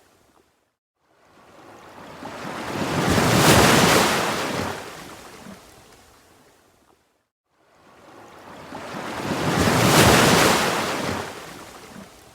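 Ocean waves, two in a row, each building slowly to a loud wash and then fading away, with a near-silent pause between them.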